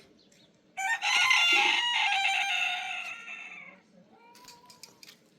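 A rooster crowing once: one long crow that begins about a second in and trails off over about three seconds.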